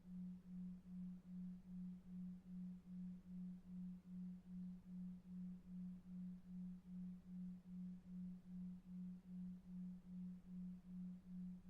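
A low pure tone pulsing evenly about two and a half times a second, a 2.5 Hz 'delta wave' pulsed tone for sleep, over faint brown noise.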